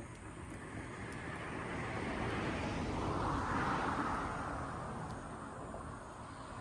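A vehicle passing by: a rush of noise that swells to a peak a little past the middle and then fades away.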